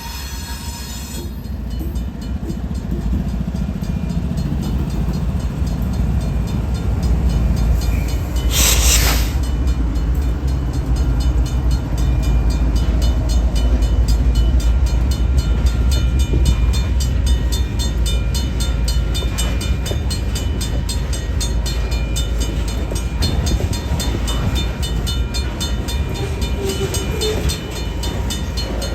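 Freight train rolling past, a heavy low rumble that builds over the first few seconds and then holds steady, with a fast, even run of wheel clicks over the rails. A short hiss breaks through about nine seconds in.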